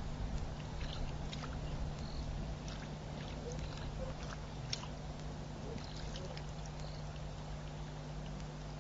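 Outdoor webcam ambience: a steady low electrical hum over a low rumble, with scattered faint ticks and a few brief high chirps, typical of small birds or insects.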